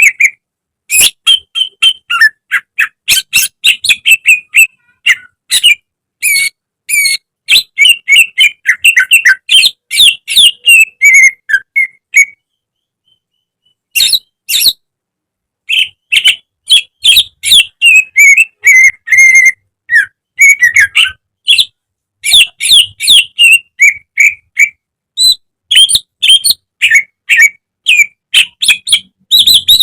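Cucak ijo (leafbird) singing a fast, loud string of chirps and whistled notes. There are brief breaks, the longest about two seconds near the middle.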